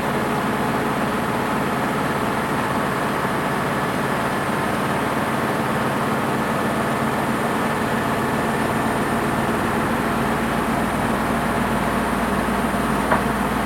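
Washing machine running steadily partway through a 40°C wash program: a continuous motor hum and rumble. There is a single short click near the end.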